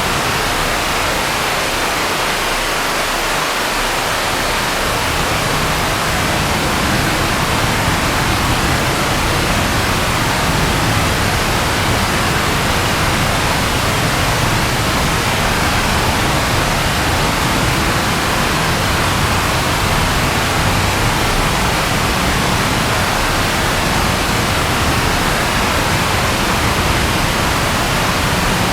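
Steady rainfall, an even unbroken hiss, with a low rumble filling in underneath after about five seconds.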